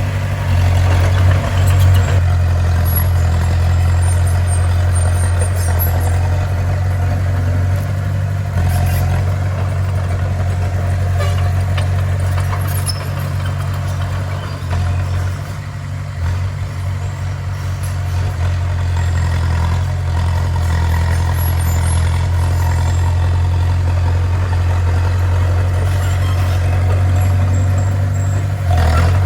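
Bulldozer's diesel engine running steadily, a deep drone that eases off briefly around the middle.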